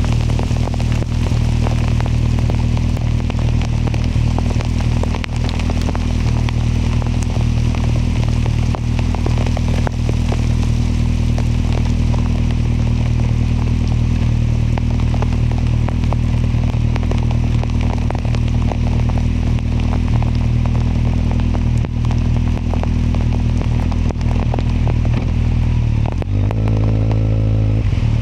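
Kawasaki motorcycle engine running at a steady cruising speed, with wind and crackling rain noise on the microphone over it. Near the end the engine note changes as the revs shift.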